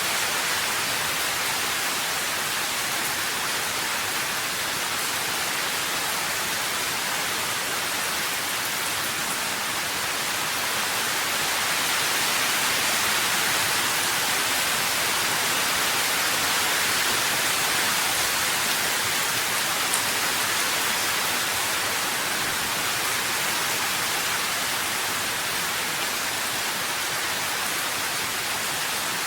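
Steady rain, an even hiss with no separate drops standing out, growing slightly louder in the middle.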